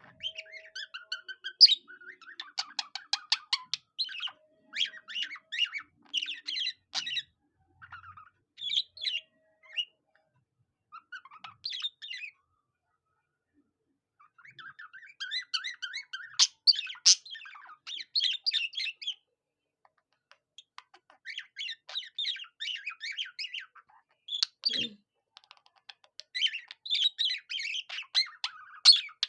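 Pet budgerigar warbling and chattering in bursts, with cockatiel-like song mixed in, and a fast run of clicks about two seconds in. It pauses briefly twice along the way.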